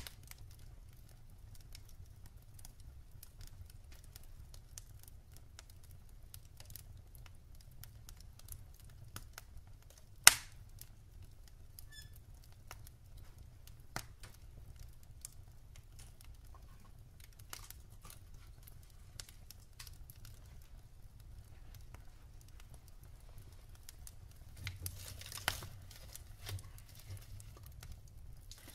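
Wood fire crackling softly in a fireplace, with scattered pops over a faint low rumble. One sharp, loud pop comes about ten seconds in, and a quick run of crackles near the end.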